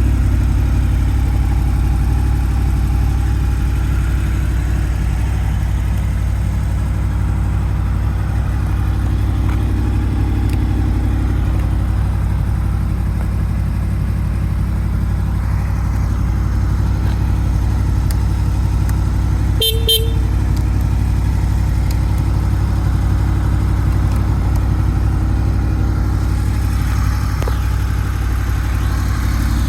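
2002 Honda VFR800 VTEC's V4 engine idling steadily through aftermarket Arrow silencers with a low burble. About twenty seconds in, a brief horn beep sounds once.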